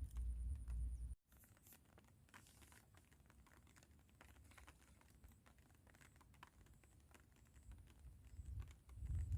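Wind buffeting the microphone as a low rumble for about a second. After a cut come faint, scattered ticks and taps.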